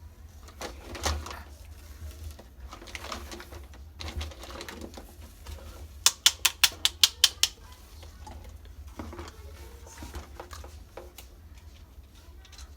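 Small plastic toy kitchen pieces being handled, with soft rustles and light knocks, and about six seconds in a quick run of about eight sharp clicks, roughly five a second.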